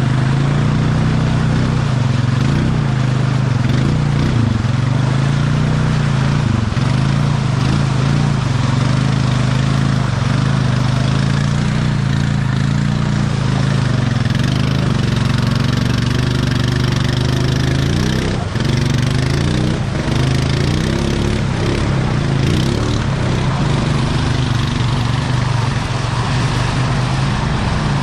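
ATV engine running steadily, its pitch wavering and rising briefly in the middle as the throttle is worked.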